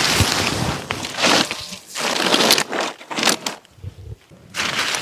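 Footsteps crunching on the ground outdoors, roughly one step a second, each step a short rustling crunch.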